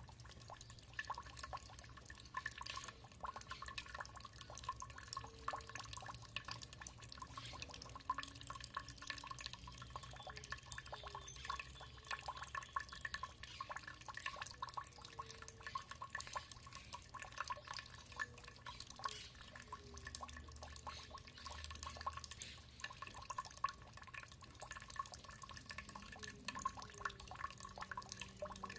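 Water dripping steadily: many quick, irregular drops landing in water, some with a short pitched plink, over a low steady rumble.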